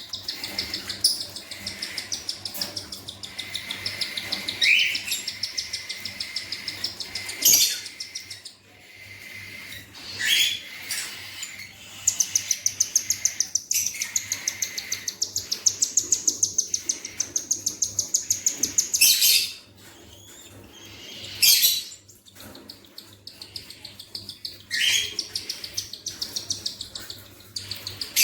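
Budgerigars chirping: long runs of rapid, evenly repeated high chirps, several a second, the begging calls of chicks being fed by a parent, with a few louder short calls in between.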